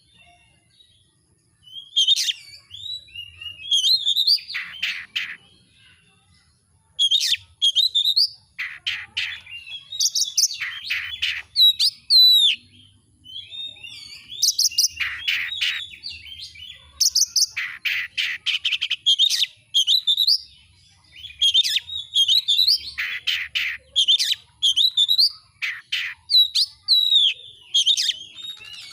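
Oriental magpie-robin singing a loud, varied song in bursts of phrases with short pauses. Clear whistled notes mix with dense rapid rattling passages.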